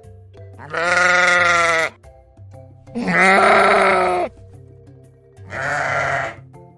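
Sheep bleating three times, each a long wavering call, over soft background music.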